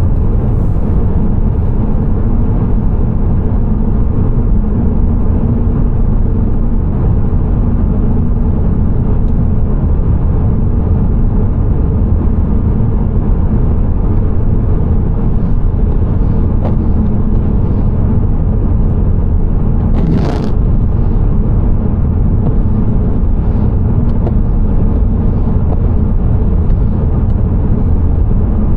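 A car driving, with steady low road and engine rumble. One short knock comes about twenty seconds in.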